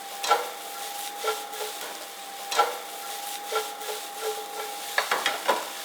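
A cooking utensil knocking and scraping against a frying pan as chicken pieces are stirred, a knock about every second and a quick run of them near the end, over a faint steady tone.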